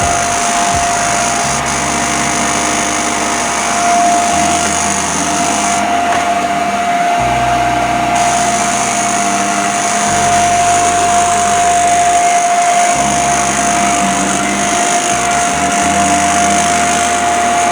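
Vacuum cleaner running on carpet: a steady motor whine over a rushing hiss of air.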